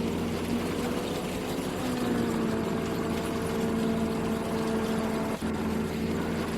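Engine of harvest machinery running steadily, its pitch shifting slightly now and then, with a brief drop in level about five seconds in.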